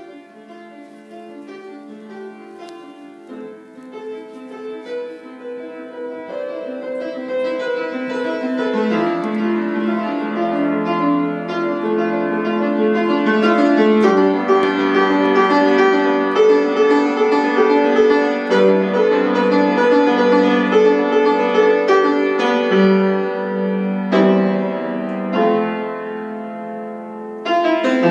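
Solo piano improvisation: it starts soft and builds steadily louder over the first half, dies back briefly near the end, then picks up again.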